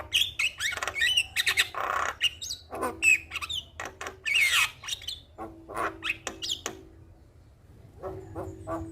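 Javan myna (jalak kebo) in full song: a fast run of harsh squawks, chatter and whistled notes. It breaks off for about a second near the end, then starts calling again.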